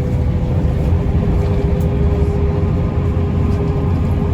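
Mercedes-Benz O405N2 city bus under way, heard from inside: a steady low drone with a steady whine over it.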